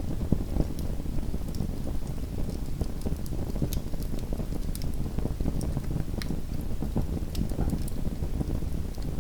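Small wood fire crackling in a fireplace: a steady low rumble of burning with frequent scattered sharp pops and snaps.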